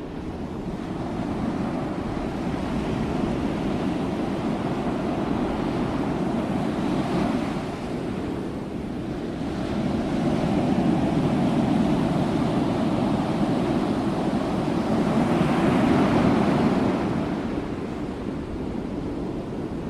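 Ocean waves breaking on a shore in a continuous rush of surf, swelling and easing as each wave comes in, with the loudest swells about halfway through and again near three-quarters of the way in.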